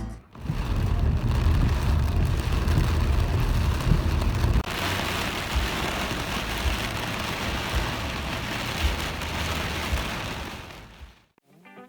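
Steady water noise, an even hiss like rain, with irregular low rumbles for the first few seconds. About five seconds in it cuts to a brighter, hissier stretch that fades out near the end.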